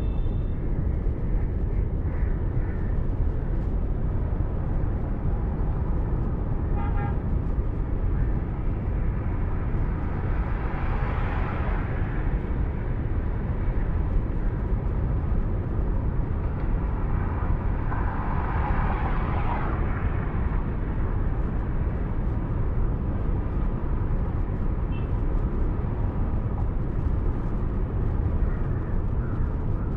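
Steady road and engine rumble of a car driving along a road, with a brief horn honk about 7 seconds in and a fainter one near the end. Noise swells twice in between, like vehicles passing.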